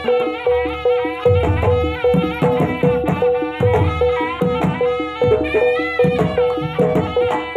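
Jaranan barongan music. A reed pipe plays a winding, gliding melody over drums, with a repeating pitched gong-like note struck at a steady pulse.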